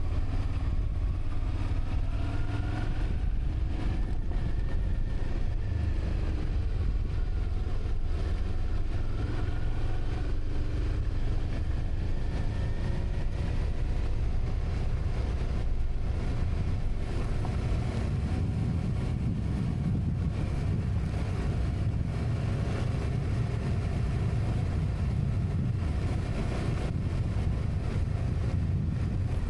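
A vehicle engine running over a heavy low rumble and wind noise, its pitch rising and falling gently as the revs change.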